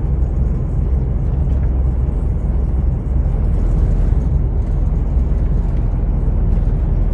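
Long-haul truck underway: a steady low engine and road drone.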